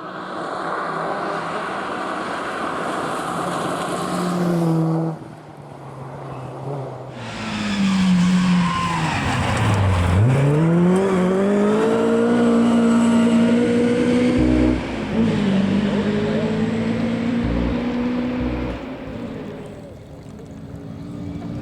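Rally car engines at full race revs. The first car's engine note climbs, then breaks off suddenly about five seconds in. A second car's revs sink steeply to a low point about ten seconds in as it slows, then rise again as it accelerates away, with a gear change around fifteen seconds.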